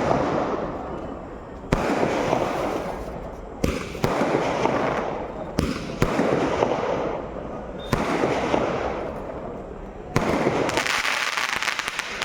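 Fireworks going off in a series: a sharp bang about every two seconds, each followed by a long fading rush. Near the end a denser run of rapid crackles follows a bang.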